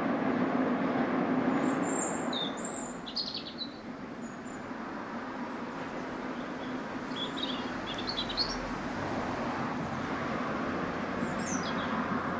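Small songbirds chirping in short bursts, three times, over a low steady rumble from a distant train. The rumble fades after about two seconds and builds again near the end.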